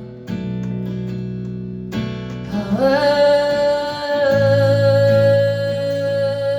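Live acoustic music: strummed acoustic guitar with a singer. About three seconds in, the voice slides up into one long held note.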